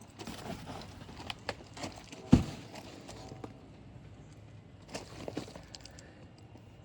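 Packaging and parts being handled during an unboxing: rustling and scattered knocks, with one loud thump about two and a half seconds in.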